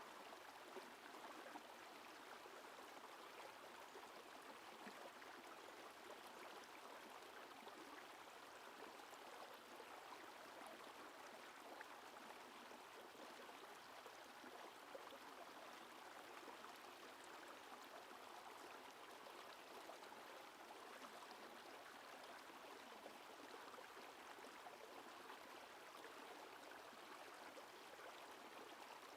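Faint, steady rush of a river's flowing water.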